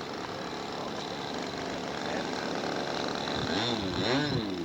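Small R/C model airplane engine running steadily. About three and a half seconds in, its pitch starts to rise and fall as the throttle is worked.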